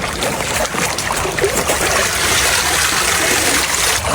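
Steady rushing noise of running water, a continuous hiss that builds slightly after the first second and holds.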